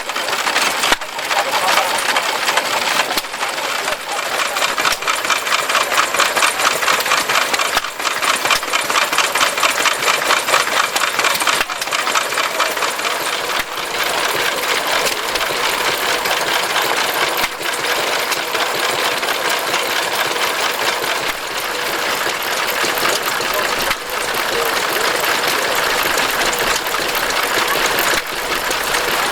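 Stationary engines running, with a fast, even knocking beat and background voices.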